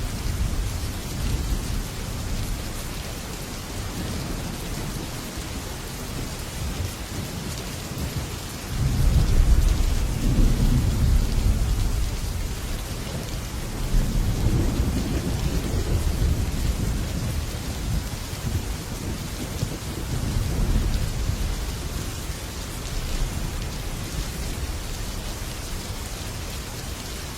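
Heavy rain drumming steadily on a metal roof, with rolling thunder. The thunder rumbles up loudest about nine seconds in and rolls again around fourteen and twenty seconds in.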